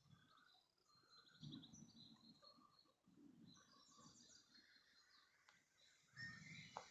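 Near silence: faint birdsong, short high chirps on and off, with a few soft low bumps.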